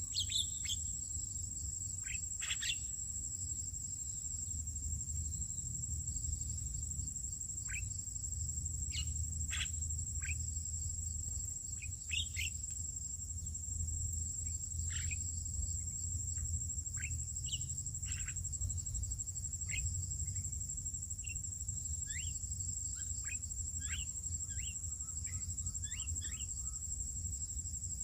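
A steady high-pitched insect drone, cricket-like, runs under many short bird chirps that come at irregular intervals and crowd together near the end, over a low rumble.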